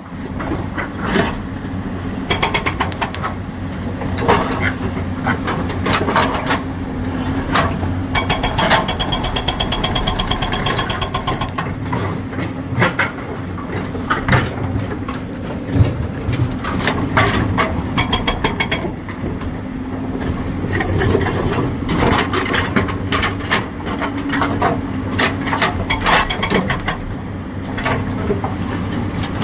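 Two excavators' diesel engines running steadily, with frequent metallic clanks and rattles from the working machines and a high squeal from about 9 to 12 seconds in.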